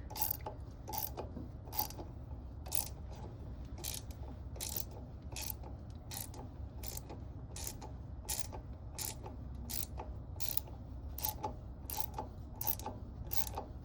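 An impeller puller being worked against a stuck seawater pump impeller on a Scania 6SY marine engine, giving short sharp clicks about twice a second with a low hum beneath. The impeller is stubborn, held fast in its housing.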